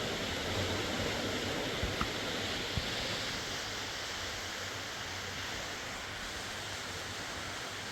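Steady rushing of a fast river, an even roar of water that eases slightly partway through, with a few faint ticks.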